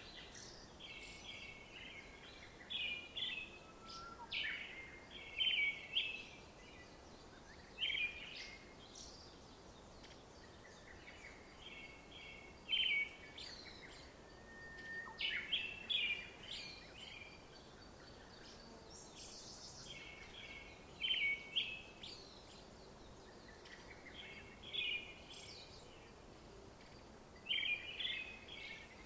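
Songbirds singing: short runs of quick chirps, repeated every two or three seconds, over a faint steady outdoor hiss.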